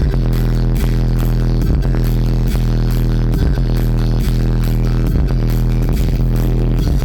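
Loud, bass-heavy hip-hop music played through a car audio system of nine Resilient Sounds Platinum V2D112 subwoofers powered by Stetsom Bass 8K amplifiers, with heavy steady bass and a regular beat, while the subwoofers are being broken in.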